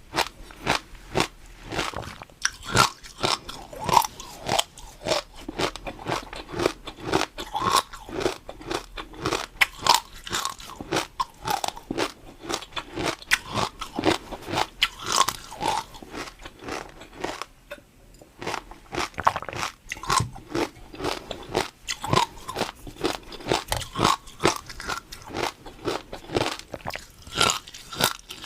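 Close-miked crunching and chewing of a crisp food, a rapid, irregular run of crackly bites that eases off for a moment past the middle, then goes on.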